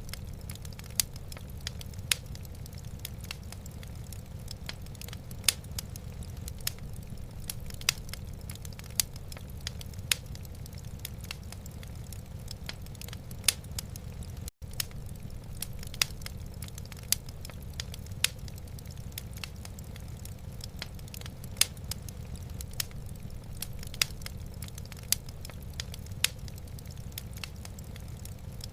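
Wood fire burning in a fireplace: irregular sharp crackles and pops, roughly one a second, over a low steady rumble. The sound cuts out for an instant about halfway through.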